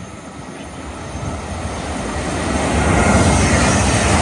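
GWR Hitachi Intercity Express Train passing through the station at speed: a rushing rumble of wheels on rail that builds steadily as it approaches and is at its loudest from about three seconds in.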